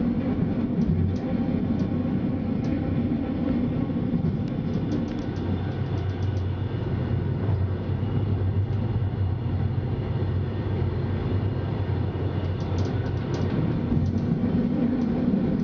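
Glacier Express train running along the track, heard from inside the train: a steady rumble of wheels on rails with scattered light clicks and rattles.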